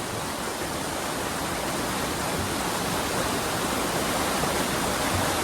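Rushing water of a fast monsoon waterfall stream, a steady dense roar that grows slowly louder.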